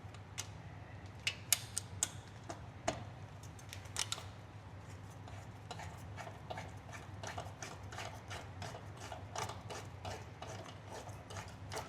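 Faint, scattered light clicks and ticks of hand work on a motorcycle radiator as it is fitted and its mounting bolts are started by hand. The clicks come closer together from about halfway through, over a faint steady hum.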